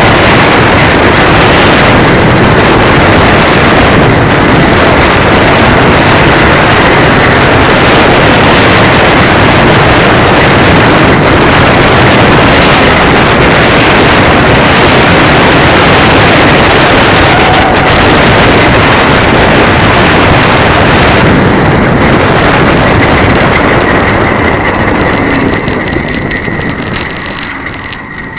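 Heavy wind buffeting on the microphone of a moving bicycle, very loud, with a faint steady whine beneath. It eases off over the last few seconds.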